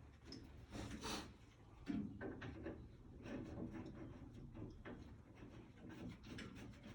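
Quiet, scattered handling noises from work on the furnace: rustling and small clicks, with a brief scrape about a second in and a knock about two seconds in.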